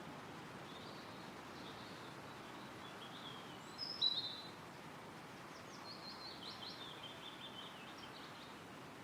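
Wind rustling steadily through forest trees while small songbirds call. Scattered high chirps lead to one loud chirp about four seconds in, followed later by a quick run of short, high notes.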